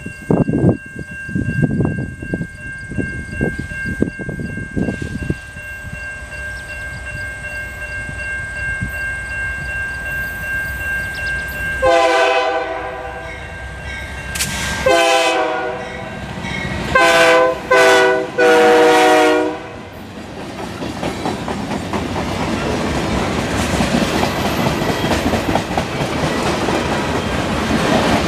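Diesel-electric freight locomotive (GE C44-9W) approaching and sounding its horn in the grade-crossing pattern: two long blasts, a short one, and a final long one, starting about 12 seconds in. Afterwards the engine rumble and wheel noise build steadily as the train draws near. Before the horn there is a steady high ringing tone.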